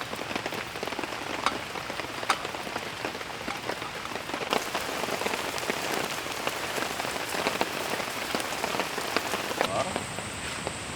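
Steady rain falling, with many sharp drops tapping close by.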